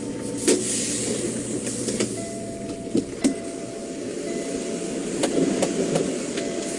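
Steady running of a big-rig diesel engine heard from the truck cab, with a few sharp clicks and knocks and, from about two seconds in, a faint steady tone.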